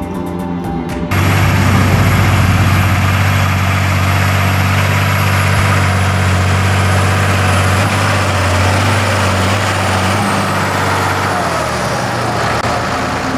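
Background music cuts off about a second in, giving way to the loud, steady running of heavy diesel farm machinery at a silage harvest, with a strong low hum. The hum changes a little near the end.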